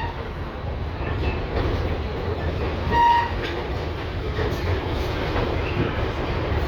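LVS-2009 tram running along its rails, heard from inside the car: a steady low rumble of the moving tram, with a short ringing ding at the very start and a louder one about three seconds in.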